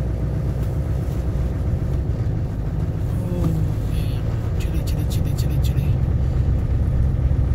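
Duramax 6.6-litre V8 turbo-diesel pickup engine running with a steady low rumble on a very cold day, with a few light clicks near the middle.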